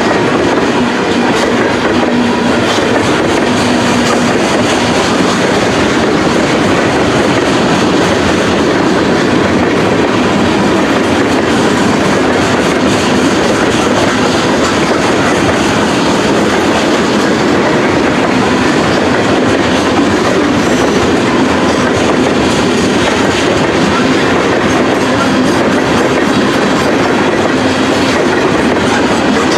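Freight train cars rolling past at close range, their steel wheels clacking over the rail joints in a steady, loud stream.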